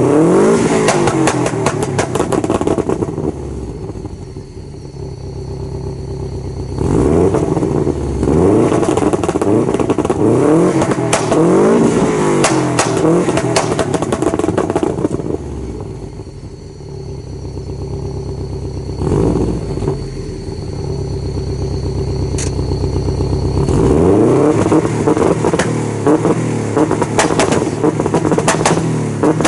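Subaru Impreza S202's turbocharged flat-four revved hard through its stock titanium exhaust, the pitch rising and falling in several bursts, with sharp popping and crackling from the anti-lag system. Between bursts it settles back to a steadier, quieter idle.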